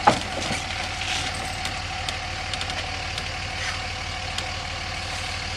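A vehicle engine idling steadily, with a couple of sharp knocks right at the start.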